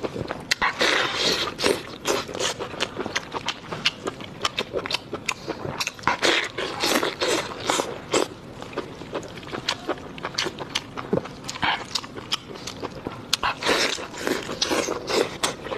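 Close-miked chewing: a person eating with many irregular sharp crunches and wet smacking sounds, bite after bite.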